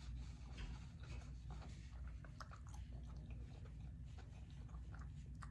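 A person chewing a mouthful of cauliflower-crust veggie pizza with closed lips: soft, irregular mouth clicks and smacks over a low steady hum.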